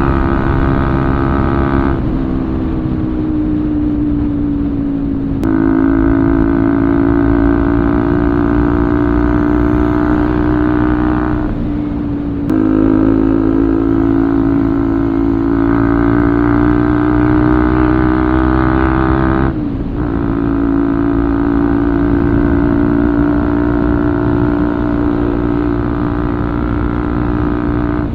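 Bajaj Pulsar 200 single-cylinder motorcycle running through an aftermarket Akrapovič full-system exhaust, pulling steadily at a fairly constant note. Twice the sound briefly dips and picks up again, with small shifts in pitch in between.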